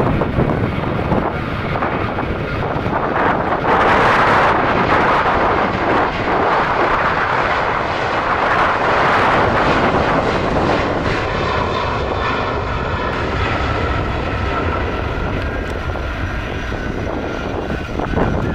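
Airliner engines running loud as an aircraft passes, the noise strongest in the first half, with a steady whine of several tones for a couple of seconds past the middle.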